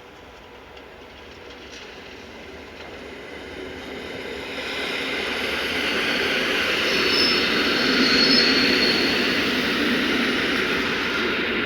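Passenger train approaching and running past, its wheel-on-rail noise growing steadily louder for about six seconds and then holding. Brief high-pitched wheel squeals come near its loudest point.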